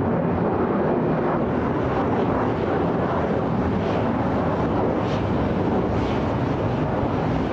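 Jet airliner engine noise, a steady, even rumble.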